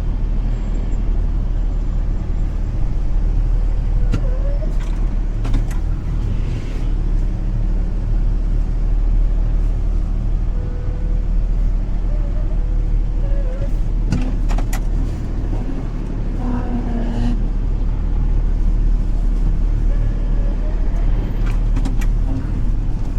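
Semi-truck diesel engine running steadily at low speed while reversing, with a few short sharp clicks or knocks.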